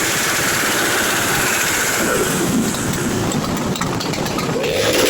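Motorcycle engine running, with a dense, steady noise and the engine's pitch shifting a little about two seconds in and again near the end.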